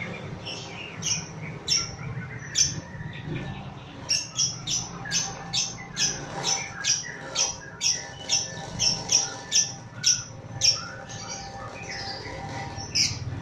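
Lovebird giving shrill squawks: a few scattered at first, then from about four seconds in a fast, even run of about three a second lasting some seven seconds, the rapid chattering song lovebird keepers call ngekek, with one last squawk near the end.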